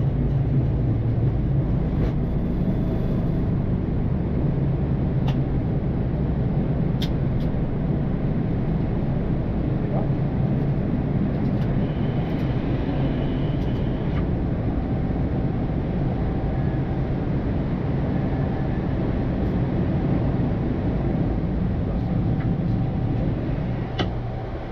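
Boeing 787-9 flight-deck noise during takeoff and initial climb: a steady, loud rumble of engines and airflow with a low hum underneath, and a few faint clicks.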